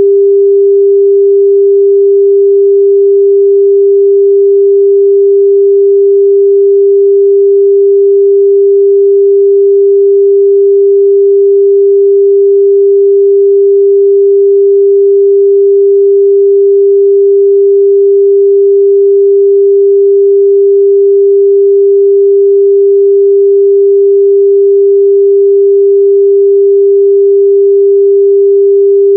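Steady 398 Hz sine-wave test tone, a single pure pitch held at constant loudness.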